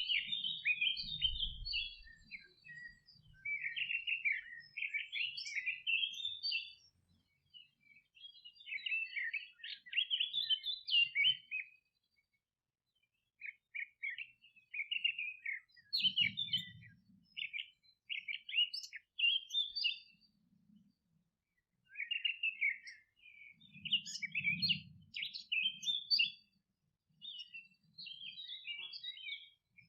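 Small songbirds twittering in rapid, chattering phrases of a few seconds each, with short pauses between bouts.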